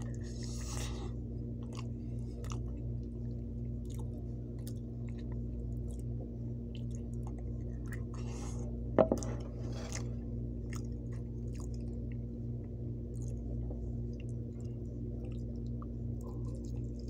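Close-up chewing and wet mouth sounds of someone eating baked beans, mashed potatoes and roast from a spoon, with small scattered clicks over a steady low hum. One sharp clack about nine seconds in stands out as the loudest sound.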